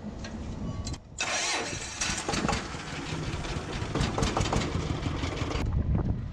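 An engine starting and then running roughly, loud and uneven, from about a second in until shortly before the end.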